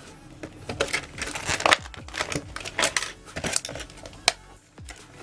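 Cardboard trading-card display box being worked open by hand: irregular crinkling and scraping with sharp clicks, the sharpest about a second and a half in and again past four seconds.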